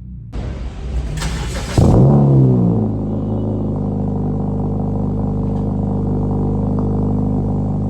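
Exhaust of a 2012 Honda Civic's 1.8-litre four-cylinder through an aftermarket eBay muffler: a loud, raspy rev about a second in, with the revs falling back to a steady idle.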